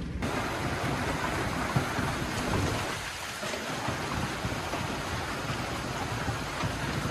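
Heavy rain falling in a steady, dense hiss, cutting in abruptly at the start.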